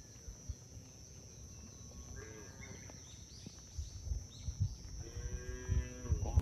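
Cattle mooing: a short moo about two seconds in, then a longer moo near the end that drops in pitch, with low thuds underneath.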